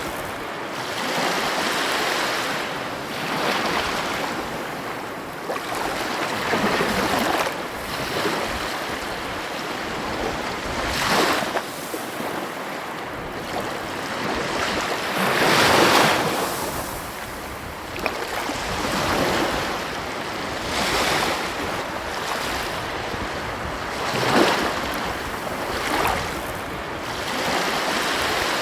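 Ocean waves breaking and washing up on a beach, surging and falling away every few seconds, the biggest wash about halfway through.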